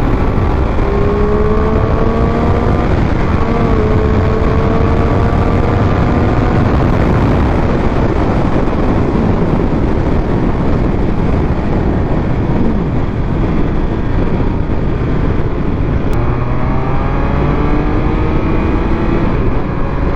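Triumph Speed Triple 1200 RS inline three-cylinder engine pulling as the motorcycle is ridden, its pitch climbing under acceleration near the start and again near the end, under loud wind rush on the microphone.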